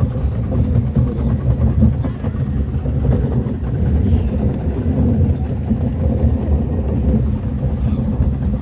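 Miniature park train running along its track, heard from aboard: a steady low rumble of the cars and wheels.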